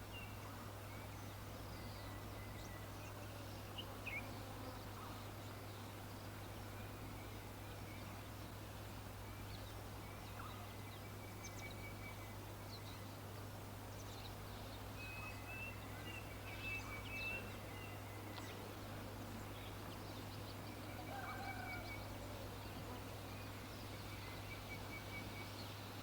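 Birds calling: scattered short high chirps and repeated runs of quick notes that come and go several times, over a steady low hum.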